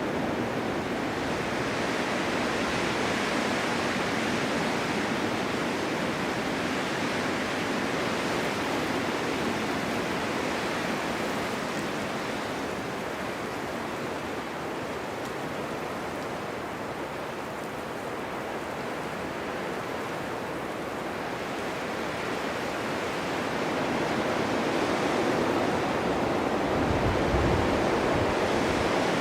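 Blizzard wind blowing snow on a winter mountain: a steady rushing noise that eases off in the middle and builds again toward the end, with a brief low rumble of a gust near the end.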